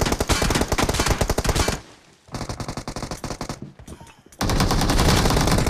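Video-game automatic gunfire: rapid machine-gun fire in three bursts, a loud one, then a quieter, more distant-sounding stretch after a short pause, then a loud burst again about two-thirds of the way in.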